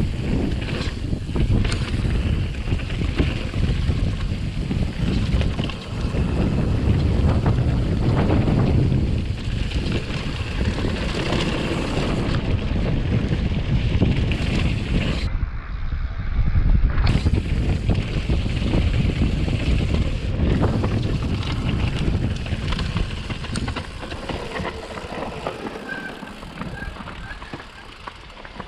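Wind buffeting a GoPro's microphone on a downhill mountain-bike run, with the bike rattling over rough trail. The noise surges up and down and eases off over the last few seconds.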